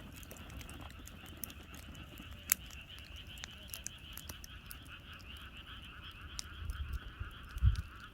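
A chorus of frogs croaking steadily, with the sharp crackles and pops of a wood campfire scattered through it. Near the end comes a single dull low thump.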